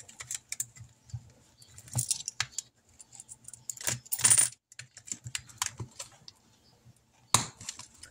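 Paper bills and cash envelopes being handled: scattered small clicks and rustles, with a louder rustle about four seconds in and a sharp click near the end.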